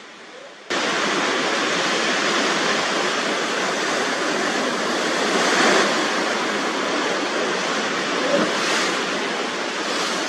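Storm wind and surf: a loud, steady rush of noise that cuts in about a second in and swells once near the middle.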